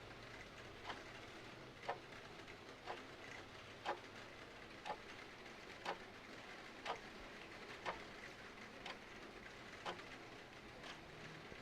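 A clock ticking about once a second over a steady hiss of rain.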